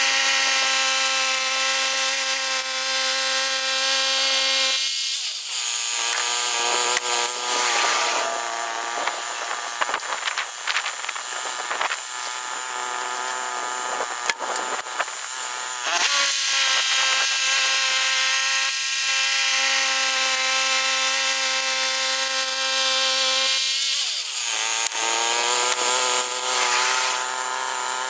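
Portable bandsaw mill's gas engine running while the band blade saws through a large pine log. The engine note drops twice under load, about five seconds in and again near the end, with the hiss of the cut growing louder while it is down.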